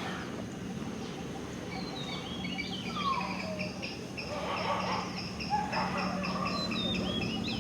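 Birds chirping and singing: from about two seconds in, a run of short repeated high notes with a few falling whistles, over a steady low hum.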